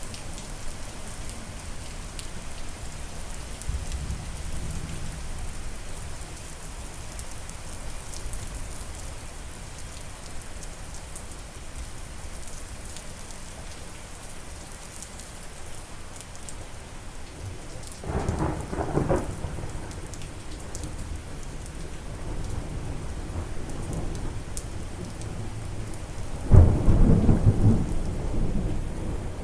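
Steady rain falling, with a rumble of thunder about two-thirds of the way in and a louder thunderclap rolling on near the end.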